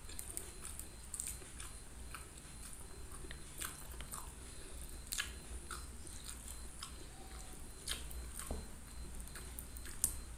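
A person chewing a mouthful of fish head and rice, with wet mouth smacks and sharp clicks scattered unevenly throughout.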